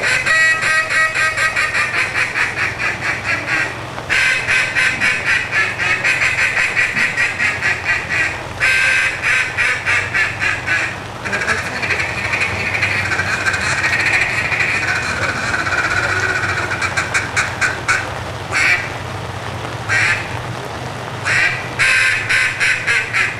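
Competition mallard duck call blown by a contestant in a calling routine: runs of rapid quacks with short breaks, slowing to a few separate, longer quacks near the end.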